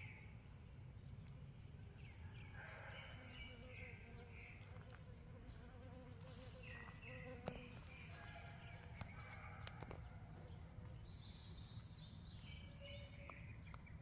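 Faint outdoor ambience: birds singing in short chirping phrases every few seconds over a low steady rumble.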